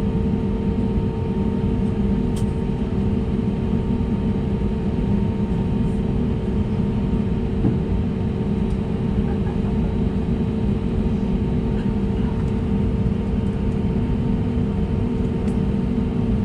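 Steady cabin hum of an Airbus A320neo on the ground, its engines idling with the air conditioning running. A few steady tones sit over an even low rumble, with an occasional faint click.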